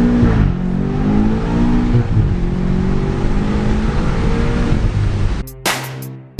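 BMW M8's twin-turbo V8 accelerating hard: the engine pitch climbs and drops back as the automatic gearbox shifts up, then holds steady under load. The engine sound cuts off suddenly near the end.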